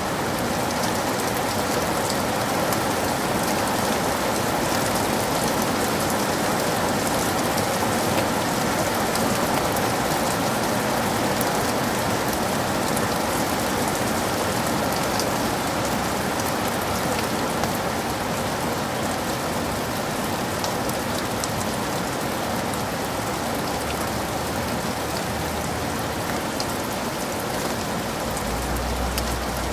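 Heavy rain falling steadily in a forest: a dense, even hiss with many individual drops ticking through it.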